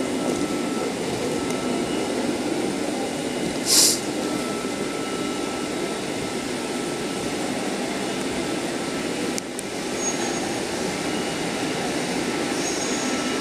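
Xplorer diesel railcar standing at the platform with its engine running, a steady rumble. There is a short hiss about four seconds in.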